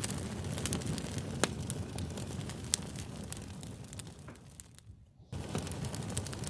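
Fire crackling: a steady low hiss dotted with sharp pops and snaps. It fades almost to nothing about four and a half seconds in, then cuts back in suddenly about a second later.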